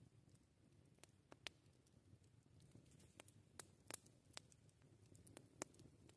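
Wood campfire crackling: irregular sharp pops and snaps, about a dozen, the loudest about four seconds in, over a faint low rumble of the burning fire.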